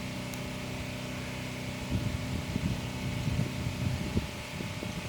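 A steady engine hum made of several even low tones. From about two seconds in there is a stretch of irregular low rumbling bumps, louder than the hum.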